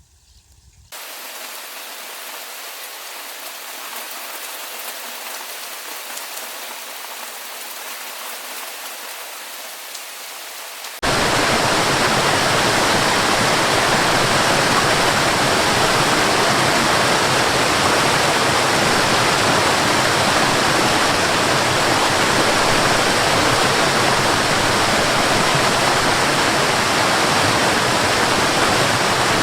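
Steady hiss of heavy rain. It starts abruptly about a second in, then jumps abruptly louder and fuller, with more low rumble, about eleven seconds in.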